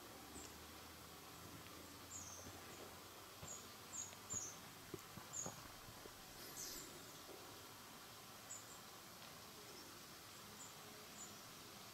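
Faint, short, high, thin bird call notes, each dipping slightly in pitch, given singly and in pairs about a dozen times over a quiet hiss. A few soft knocks come around the middle, and a brief rustle follows a little later.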